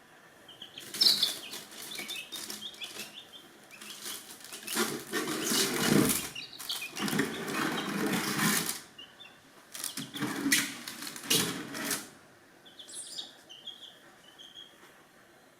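Chicken wings flapping and scuffling in several loud, rough bursts over about eleven seconds, with chicks peeping in short high chirps around them.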